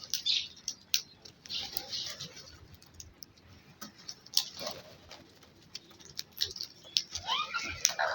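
Birds calling: scattered short high chirps and small clicks, with one longer bending call near the end.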